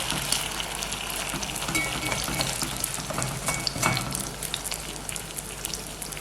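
Batter snack shallow-frying in a little oil in a kadai, sizzling steadily, with clicks and scrapes of a spatula as the piece is turned over.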